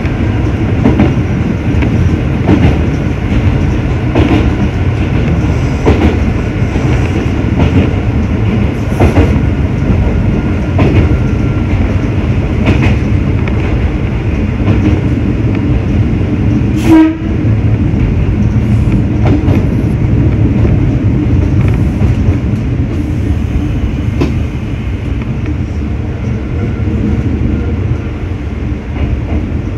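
Local electric train running along the line, heard from inside the car: a steady low rumble with irregular clicks over rail joints. A single sudden loud sharp sound comes about halfway through, and the running noise eases a little near the end.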